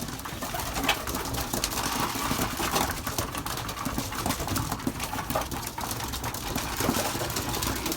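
Young racing pigeons cooing and moving about inside a small loft, with scattered short clicks and rustles.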